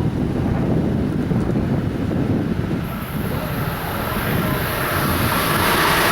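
Wind buffeting the microphone over a low rumble, with the rising rush of an approaching Amtrak train building from about halfway in.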